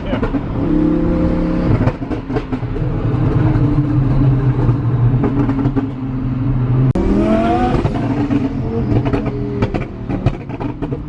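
Car engine running under load while driving, with a steady drone. About seven seconds in it cuts sharply, then the revs climb in pitch as the car accelerates.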